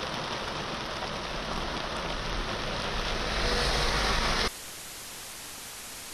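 Heavy rain pouring down, a dense steady hiss that grows louder about three seconds in. It cuts off abruptly about four and a half seconds in, giving way to a quieter steady hiss.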